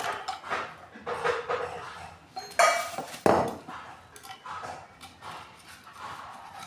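A dog barks twice, loud and close together, about two and a half seconds in. Under it runs a series of short scrapes of a knife blade on the metal water-pump head, cleaning off the old gasket.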